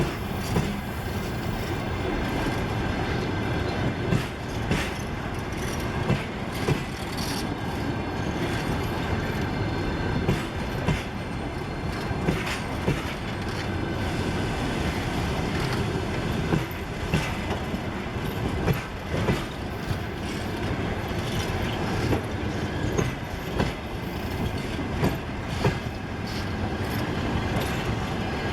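Passenger train's coaches rolling past, with a steady rumble of wheels on rail. Many sharp wheel clacks at irregular intervals as the bogies cross rail joints.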